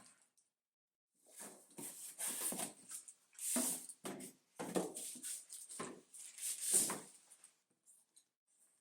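Packaging being handled: a run of irregular rustles and scrapes of plastic wrapping and cardboard as parts are lifted out of the box, stopping about seven seconds in.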